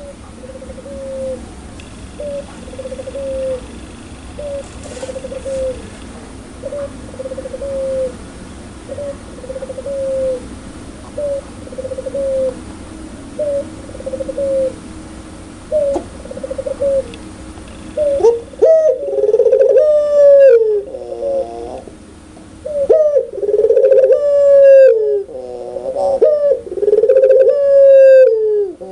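Puter pelung (domestic ringneck dove) cooing: at first a run of soft short coos about one a second over a low hum, then from about 18 s in much louder, longer rolling coos with fast trilled stretches, the bird calling hard in its 'laughing' style.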